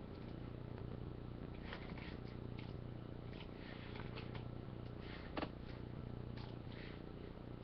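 Steady low electrical hum with faint scattered rustles and ticks, and one sharper click about five seconds in.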